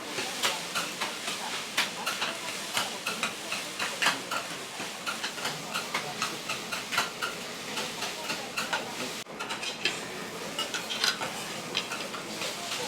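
Metal spatulas tapping and scraping rhythmically on a hot iron griddle, with food sizzling underneath.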